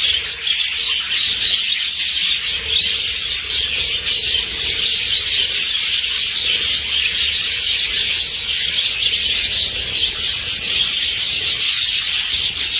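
A large colony of budgerigars chattering all at once, a dense, continuous, loud mass of chirps and warbles.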